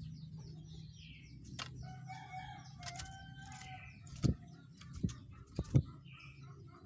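A rooster crows once, starting about two seconds in and lasting under two seconds, over scattered short songbird chirps. Several sharp clicks follow near the end, and a steady high-pitched tone runs underneath.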